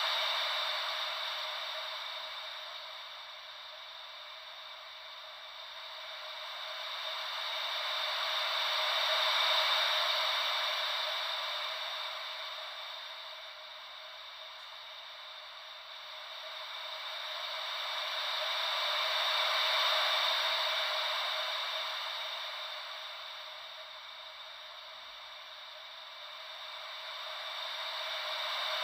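Gentle ocean-wave white noise: a steady hiss that swells and fades slowly and evenly, about once every ten seconds, like waves rolling in.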